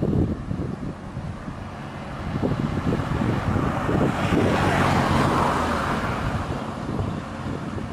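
Heavy-load truck's diesel engine labouring uphill, growing louder about halfway through and easing off again toward the end.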